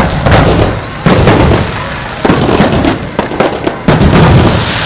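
Fireworks display bursting, a rapid, irregular series of loud bangs, several close together, each with a rumbling tail.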